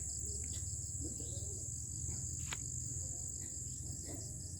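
Crickets chirring at night: a steady, high-pitched trill with a fainter pulsing chirp beneath it, over a low steady hum, and one sharp click about halfway through.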